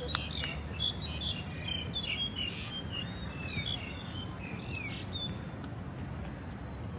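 Birds chirping: a busy run of short notes and whistled glides that stops about five seconds in, over a low steady rumble. A sharp click sounds at the very start.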